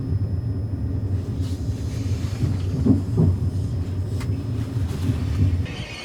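Train running with a steady low rumble, with a couple of brief knocks about three seconds in. The rumble falls away shortly before the end.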